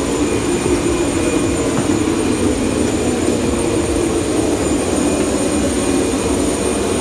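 Jet aircraft running steadily on the ground: a loud, even rushing noise with a thin high-pitched whine over it.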